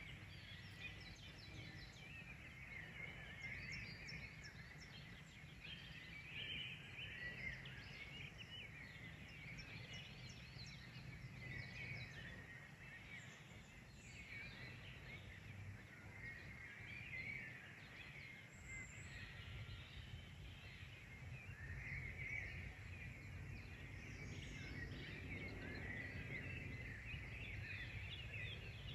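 Several songbirds chirping and singing, quick high notes overlapping throughout, over a low steady background rumble.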